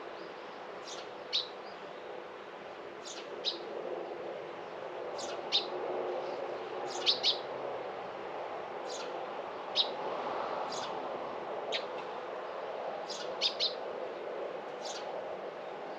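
A small bird chirping outdoors: short, sharp high chirps every second or two, some single and some in quick pairs or triplets, over a steady low background hum.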